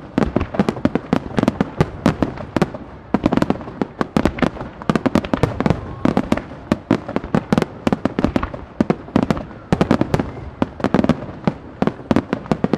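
Starmine fireworks barrage: aerial shells launching and bursting in rapid, overlapping succession, several sharp bangs a second without a break.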